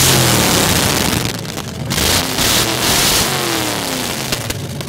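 Hot rod engine running through open straight exhaust pipes and being revved: two loud blasts, one just after the start and one a little past two seconds, with the engine note falling and rising between them.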